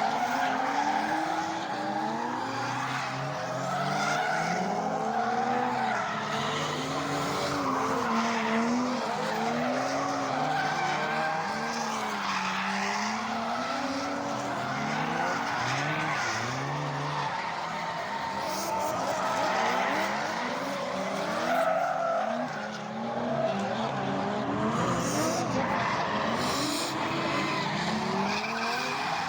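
Drift cars sliding on track: engines revving up and down as the throttle is worked, with tyres squealing. More than one engine can be heard at once, their pitches weaving over each other.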